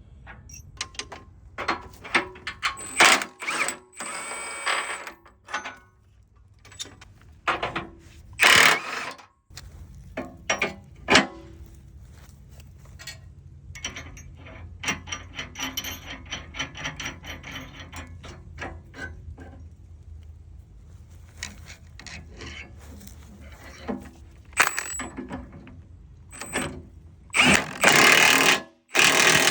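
Steel tractor hitch pin and its hardware being handled and fitted, with repeated metal clinks and knocks. A steady low hum sits under it from about ten seconds in, and a loud burst of dense mechanical noise comes near the end.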